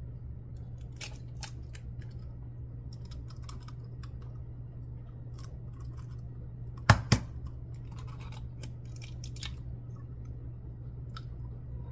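An egg knocked sharply twice on the rim of a container, about seven seconds in, among small clicks and ticks of eggshell being handled and pulled apart, over a steady low hum.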